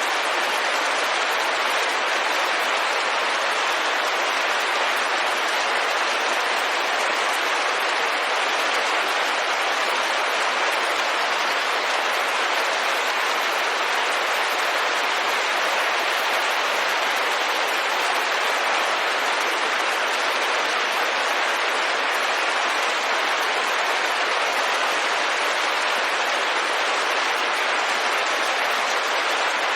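Steady rain falling on a window: an even, unbroken hiss with no single drops, thunder or other events standing out.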